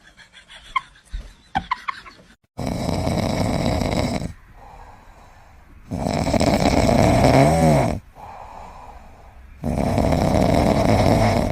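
Loud snoring from a sleeping pet: three long snores, roughly three and a half seconds apart, after a couple of seconds of faint short squeaks.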